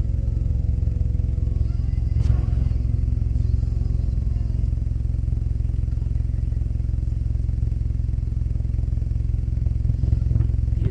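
Steady low engine rumble, as of a vehicle idling, with a couple of brief knocks.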